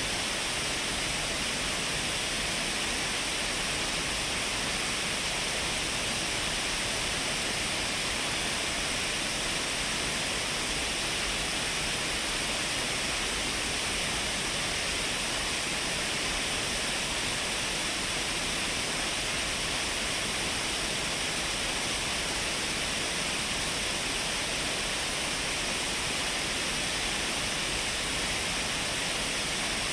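Shiraito Falls, a wide curtain of many thin falls: the steady, even rush of falling water, a constant hiss-heavy noise with no breaks or changes.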